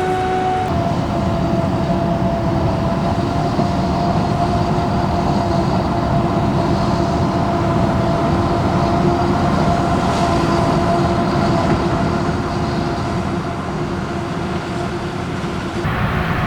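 Heavy farm machinery running steadily at harvest work, a dense rumble with a steady high whine over it.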